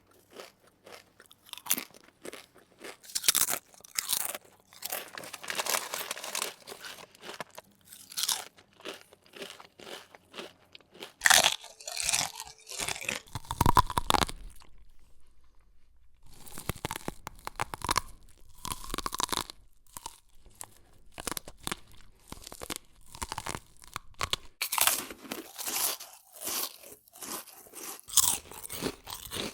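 Close-up crunchy chewing and biting of crisp food, a rapid, irregular run of crunches that stops for a second or two around the middle and then resumes.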